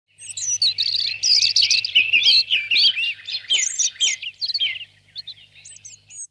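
Birds chirping and singing, many quick warbled calls overlapping, thinning to a few scattered calls after about five seconds.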